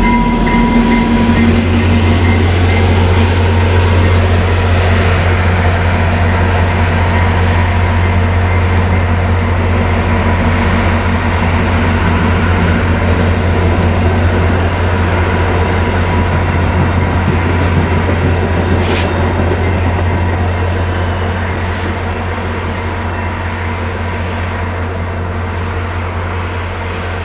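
VIA Rail passenger train pulling out and rolling past, a loud steady low rumble of cars on the rails that grows fainter over the last several seconds as it moves away.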